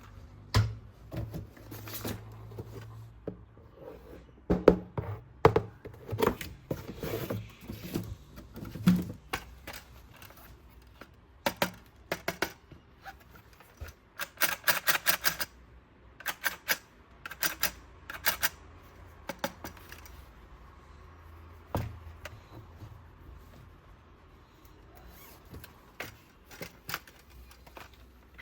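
Toys being handled during an unboxing: irregular sharp clicks, knocks and rattles, with a quick run of about eight clicks partway through.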